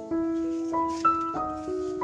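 Background piano music: a slow melody of sustained notes over held chords.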